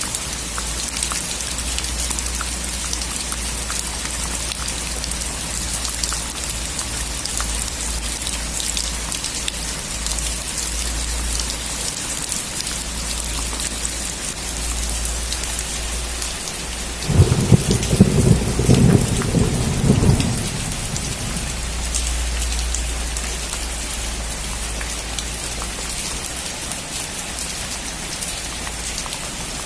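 Steady rain falling on surfaces, with one loud crackling rumble of thunder a little past the middle that lasts about three seconds and dies away.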